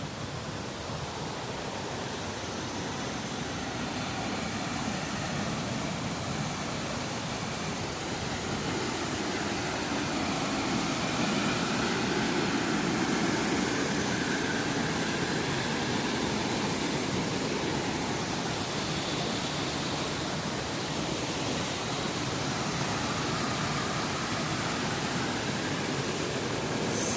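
Waterfall: a steady rush of falling water that grows gradually louder over the first half, then holds level.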